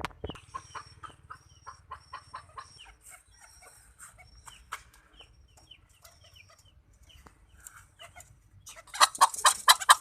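A flock of chickens clucking, many short calls one after another, with some thin high peeps among them. Near the end comes a sudden, much louder burst of noisy commotion.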